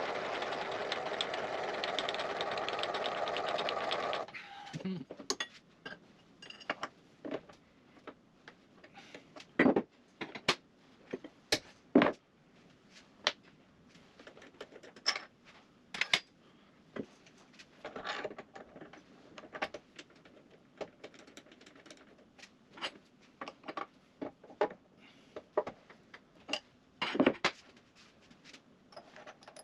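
A small machine runs with a fast, even rattle for about four seconds, then cuts off suddenly. After that come scattered clicks and knocks of metal tooling being handled on the mill.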